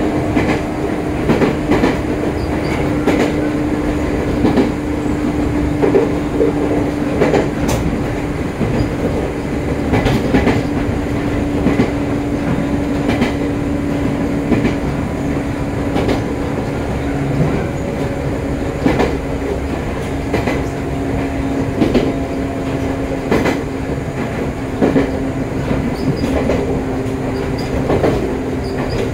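Joshin Line electric multiple-unit train running at speed, heard from on board: a steady low hum that drifts slightly down in pitch, with irregular wheel clicks over rail joints.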